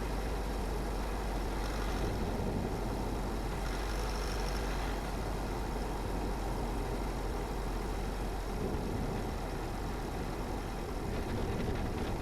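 Steady road noise of a car driving: a low rumble of tyres and engine hum that holds even throughout.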